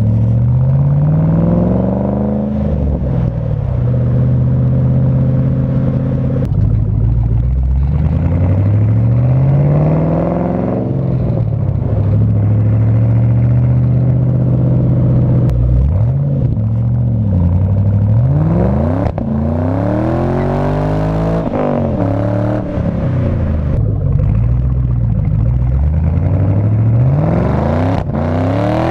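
Ford Mustang engine breathing through a new custom stainless exhaust with headers and high-flow cats, revved repeatedly: two long climbs in revs that drop back and hold, then about halfway through a run of quicker blips rising and falling.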